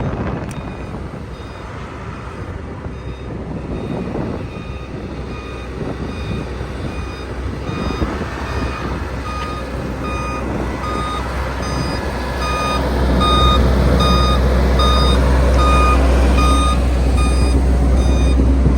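Sakai road roller reversing: its back-up alarm beeps about twice a second over the diesel engine's rumble. The engine gets louder about two-thirds of the way through.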